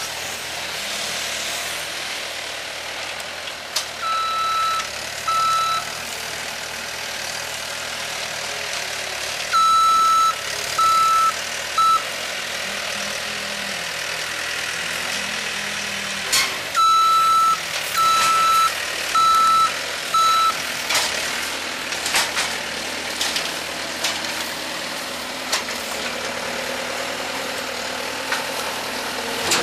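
Backup alarm on a piece of heavy equipment, beeping at one steady pitch in three short runs of two to four beeps, about one a second, over a diesel engine running steadily.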